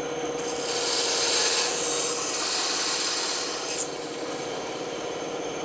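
Band saw running with a steady hum, its blade cutting through wood from about half a second in until nearly four seconds, then running free.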